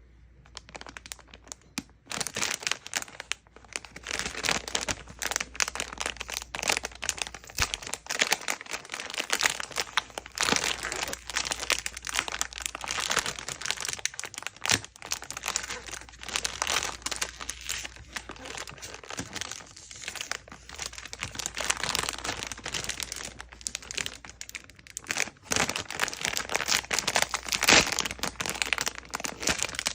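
Packaging being crinkled and torn open by hand during an unboxing. A dense, irregular run of crackles starts about two seconds in.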